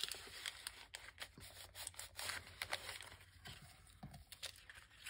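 Paper being handled: rubbing and scraping, with a scattering of short ticks and clicks.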